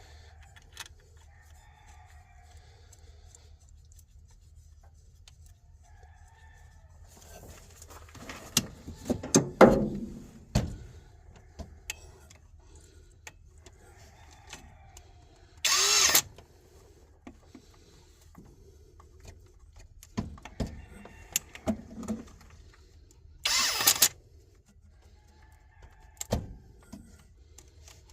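Metal tools clanking and clinking during engine work, then short bursts of a power tool, each about half a second long, three times.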